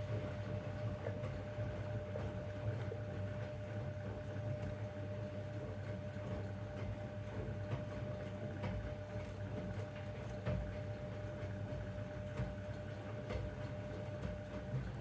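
Zanussi DL22 washing machine turning its drum in one direction during a 90 °C boil wash: a steady motor hum with a held whine and light knocks from the tumbling load, stopping shortly before the end.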